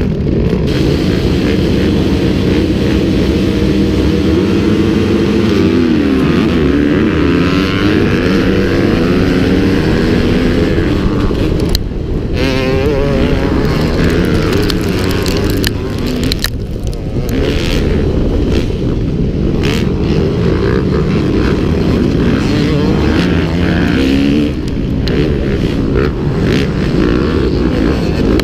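Motocross bike engine running hard, its note rising and falling again and again as it revs up and down through the gears, with a few brief drops in revs.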